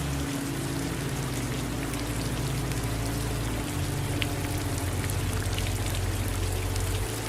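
Steady rain falling, an even hiss with scattered individual drops ticking, over a low steady rumble.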